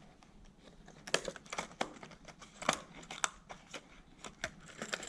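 Plastic lure packaging being handled and opened: faint rustling, then from about a second in irregular sharp clicks and crinkling snaps.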